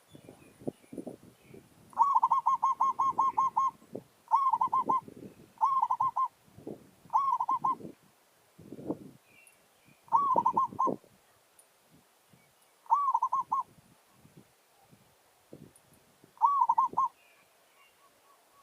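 Zebra doves cooing in seven bouts of quick, staccato stuttering coos, the first bout the longest. Soft rustles and taps sound between the bouts.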